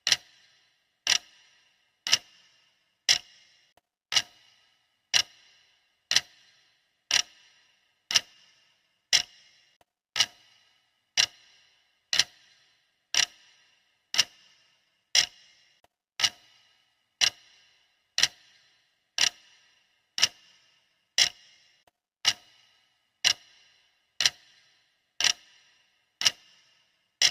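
Sharp clock ticking of a countdown timer, steady at about one tick a second, each tick with a short ringing tail.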